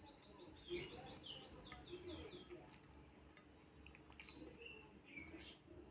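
Faint bird chirping: a quick run of about ten short, high, falling chirps in the first couple of seconds, then a few scattered chirps near the end.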